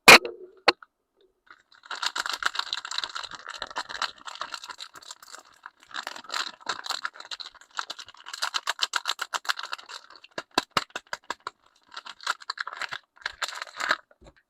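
Soap packaging being unwrapped by hand: bursts of rapid crinkling and crackling, with a sharp click at the start and short pauses between handlings.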